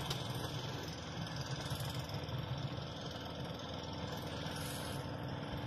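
An engine running steadily at an even pitch, with no sharp impacts.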